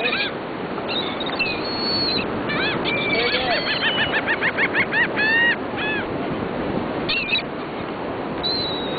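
Seagulls calling over and over, with a quick run of short calls about four seconds in, over a steady rushing background.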